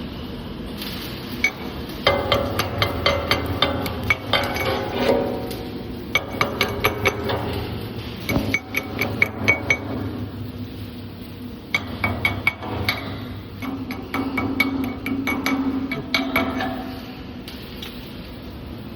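Hammer blows on steel sheet metal, ringing, struck in quick runs of several blows a second with short pauses between, over a steady low machine hum.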